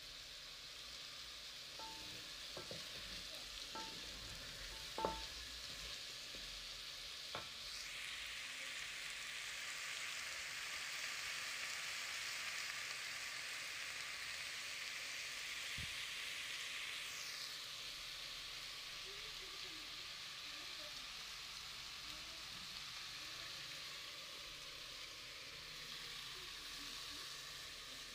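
Meat and chopped tomatoes sizzling as they fry in an aluminium pot, stirred with a wooden spoon. A few light knocks of the spoon against the pot come in the first seven seconds, the loudest about five seconds in, and the sizzle grows louder for a stretch in the middle.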